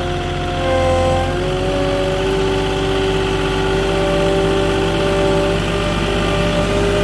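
Moffett truck-mounted forklift's diesel engine running steadily. Its pitch rises a little about a second in, then holds.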